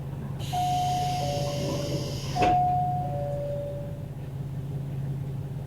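Train door chime, a two-tone ding-dong sounding twice, over a hiss of air as the doors close with a knock about two and a half seconds in. Beneath it a diesel railcar engine idles with a steady hum.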